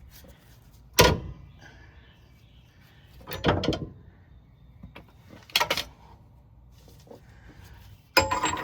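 Metal hand tools working on a differential pinion nut: a sharp knock about a second in, then three short scrapes.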